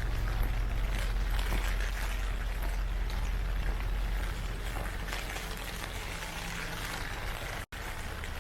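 Heavy typhoon rain falling and pattering, with many small drop clicks over a low steady rumble. The sound cuts out for an instant near the end.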